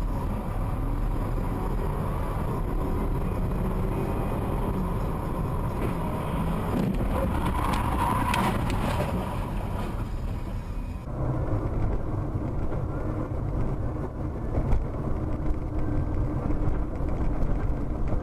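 Car driving, heard from inside through a dash camera: steady engine and road noise, with a brief rougher, louder stretch partway through. About 11 seconds in the sound changes abruptly to a different car's road noise.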